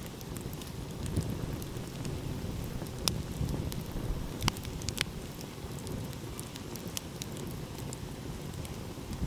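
Wood campfire crackling, with scattered sharp pops, the loudest about three to seven seconds in, over a steady low rush of ocean waves.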